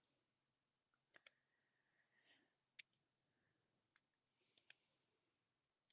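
Near silence broken by a few faint computer mouse clicks: a quick pair, one slightly louder near the middle, and another later.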